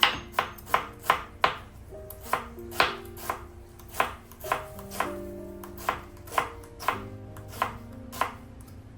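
Knife chopping on a cutting board in quick, uneven strokes of about two a second, over soft background music.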